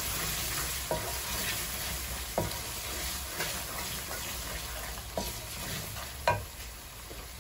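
Onion-tomato masala with ground spices sizzling in oil in a metal karahi while a wooden spoon stirs it, with a few sharp knocks of the spoon against the pan, the loudest about six seconds in.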